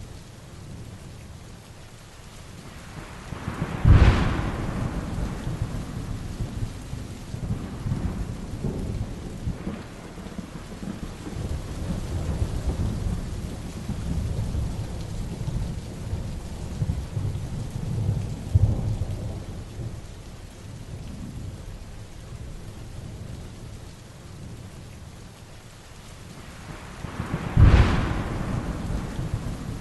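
Heavy rain falling steadily through a thunderstorm, with two sharp, loud thunderclaps, one about four seconds in and one near the end, and low rolling rumbles of thunder between them.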